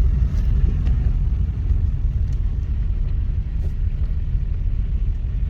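Steady low road rumble of a car, heard from inside the cabin.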